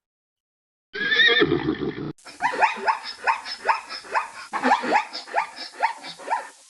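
Horse whinnying: a long neigh made of a quick run of falling cries, about three a second, tailing off near the end. Just before it, about a second in, a short separate animal call with a wavering pitch.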